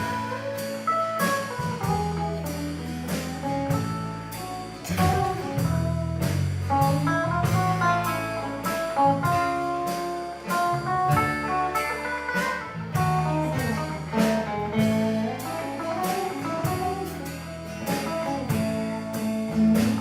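Country band playing an instrumental break between sung verses: a guitar carries the melody over bass and a steady drum beat.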